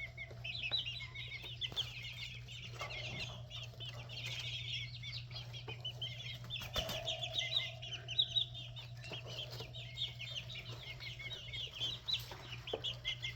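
A crowded pen of young chickens, six-week-old red junglefowl among them, peeping continuously in many short, high, overlapping chirps over a steady low hum.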